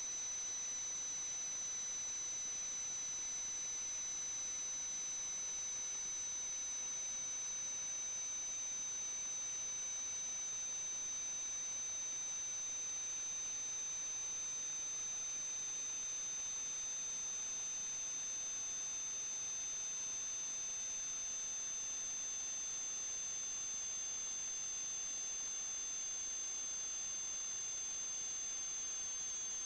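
Steady electronic hiss with thin, high-pitched whining tones; one tone slowly falls while a lower one slowly rises, the two drifting toward each other.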